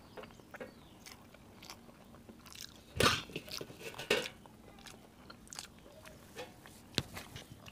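Close-miked eating sounds of rice and kadhi eaten by hand: wet mouth smacks and chewing, with two louder bites or smacks about three and four seconds in and a sharp click near the end.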